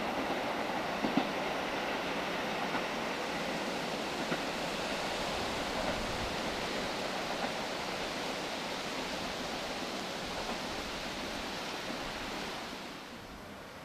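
A train running past on the line, a steady rushing noise of wheels on rails with a few faint ticks, which falls away quickly near the end.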